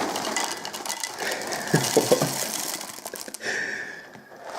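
Dry Cap'n Crunch cereal pouring from the box into a bowl, a rattling patter of many small pieces, with a few heavier knocks about two seconds in.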